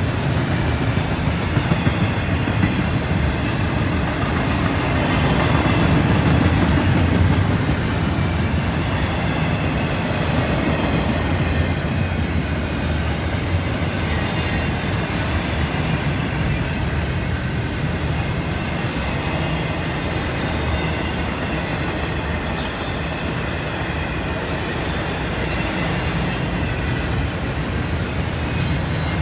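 CSX intermodal freight train rolling past: a steady rumble of wheels on the rails, with a few sharp clicks in the last seconds.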